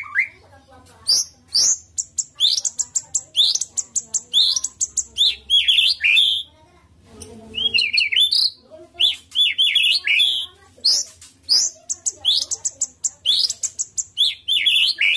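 White-rumped shama (murai batu) singing a fast, varied song of short chirps and whistled notes, in phrases broken by brief pauses about a second in and around six to seven seconds in.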